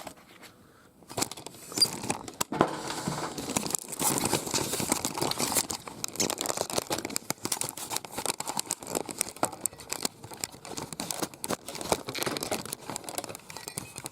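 Plastic wrapping crinkling and rustling as it is handled, in dense irregular crackles starting about a second in and stopping just before the end.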